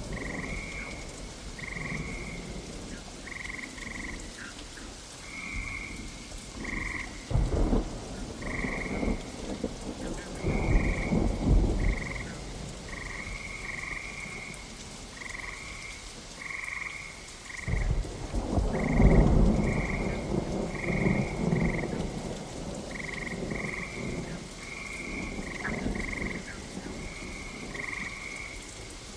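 Steady rain with rolling thunder: a short rumble about seven seconds in, another a few seconds later, and the loudest one about two-thirds of the way through. Over the rain, a frog croaks in short, same-pitched calls repeating about once or twice a second.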